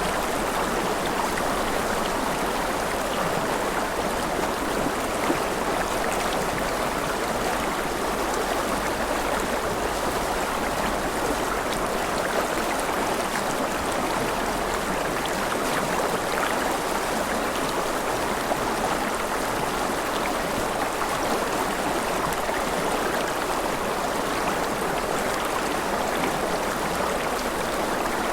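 Continuous water noise: a dense, even rush of falling or flowing water with fine scattered ticks like drops, holding steady throughout.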